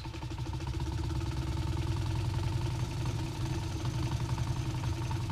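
A motor running steadily with a low hum, a couple of fainter steady higher tones and a fast fluttering pulse.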